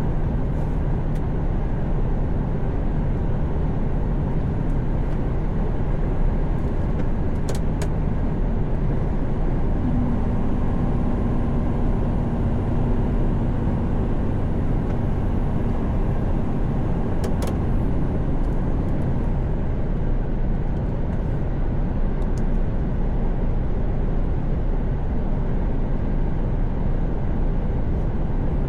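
Mercedes-Benz Actros truck cruising on a motorway, heard from inside the cab: a steady engine drone under tyre and road rumble. A steady hum stands out for several seconds in the middle.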